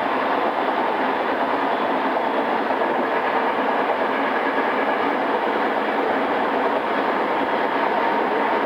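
Steady running noise heard inside a JR East E217 series motor car, MoHa E217-2006, in its original pre-renewal form, with the train moving along the line. It was recorded on cassette tape, so the top end is dull, and faint steady tones run under the rumble.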